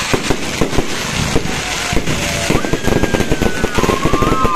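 Fireworks bursting in a dense run of sharp crackling pops. A long steady high tone sounds just past halfway, and another comes in near the end.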